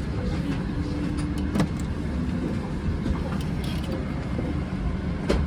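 Steady low rumble of airliner cabin noise inside a Boeing 777-300ER, with faint background voices and a couple of sharp clicks, one about a second and a half in and one near the end.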